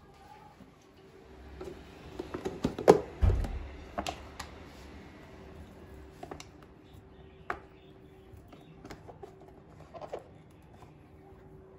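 Light clicks and knocks of kitchen items such as containers being handled and set down, busiest about two to four seconds in, with one louder knock and a dull thud there. The handling then thins to a few scattered taps over a faint steady hum.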